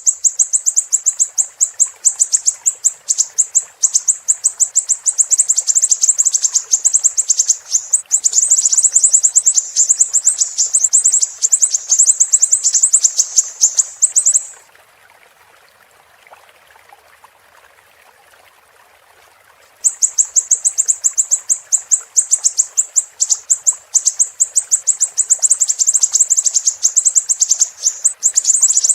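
Siri-siri bird singing a rapid, high-pitched trill of closely repeated chirps. The song breaks off about halfway through for some five seconds, then resumes. A faint steady rush of flowing water runs underneath.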